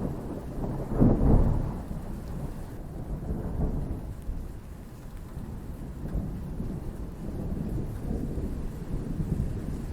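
Thunder rumbling with steady rain, swelling to its loudest about a second in and then rolling on at a lower level.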